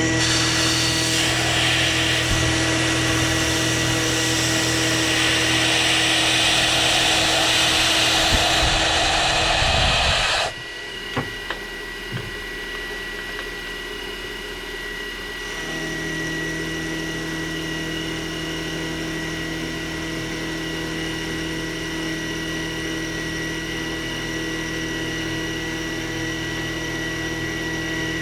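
Milling machine cutting metal with a loud, steady cutting noise over the spindle hum. The cutting stops abruptly about ten seconds in, with a few sharp clicks, and the machine runs on more quietly.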